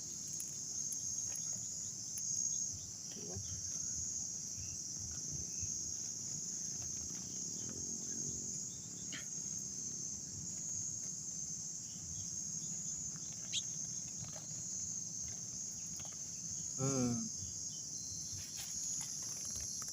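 Insects droning in one steady, high-pitched, unbroken band.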